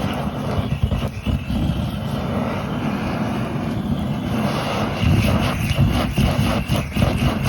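Portable butane gas torch flame running steadily as it lights the firewood, with scattered crackles.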